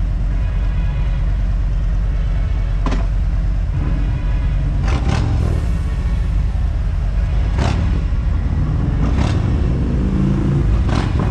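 Harley-Davidson motorcycle engine running under way with a steady low rumble, with about five short sharp clicks or knocks spread across it.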